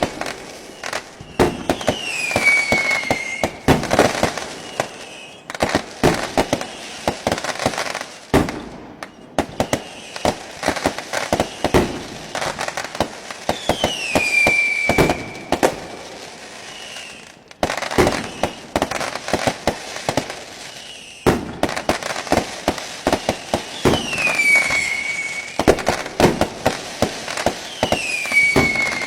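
Fireworks display: rapid, irregular bangs and crackling from bursting shells, with a high falling whistle a few times.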